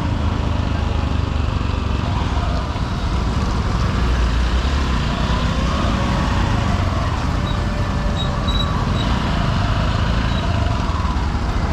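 Honda SP125 single-cylinder commuter motorcycle riding through heavy city traffic: its engine running steadily under the rumble of wind on the helmet-mounted microphone, with surrounding traffic noise.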